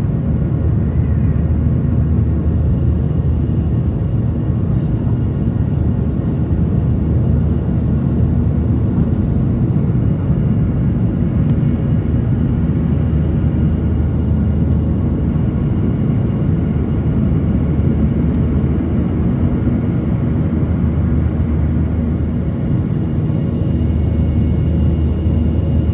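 Steady airliner cabin noise heard from inside the plane: engines and airflow making an even low drone with a faint steady hum.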